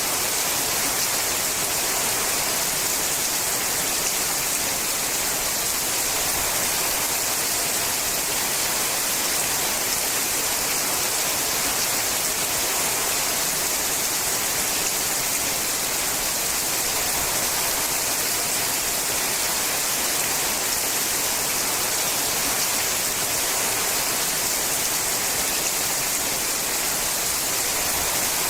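Steady rain falling on a sheet-metal roof: an even, bright hiss with no separate drops standing out and no change in intensity.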